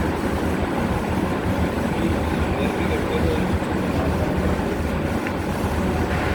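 Laser cutting machine running a cutting job, its smoke-extraction blower on, making a steady low hum and rush of air.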